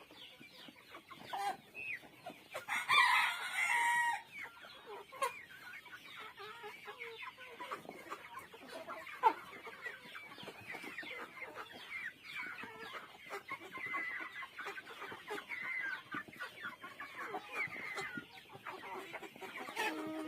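A flock of chickens clucking and calling continuously, with a rooster crowing once about three seconds in. There is a brief sharp knock about nine seconds in.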